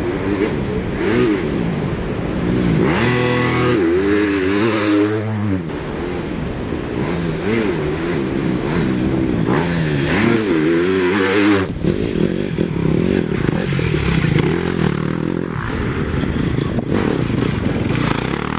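TM Racing enduro motorcycle engine revving, its pitch climbing and falling again and again as the throttle is opened and closed through the gears.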